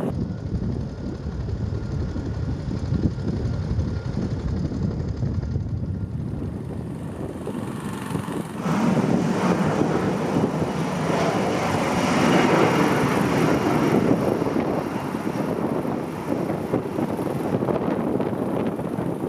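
An aircraft passing, its engine noise swelling about eight seconds in, loudest a few seconds later, then easing, over wind buffeting the microphone.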